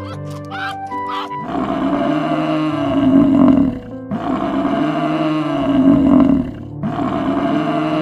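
A large animal roaring three times, each roar long and rough, over light background music that is heard alone for the first second or so.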